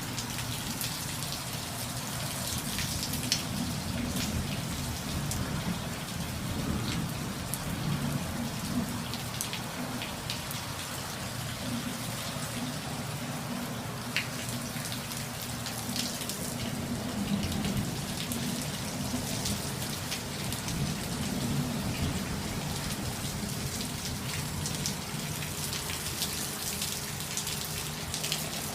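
Heavy monsoon rain pouring steadily, with many sharp drops ticking on hard surfaces.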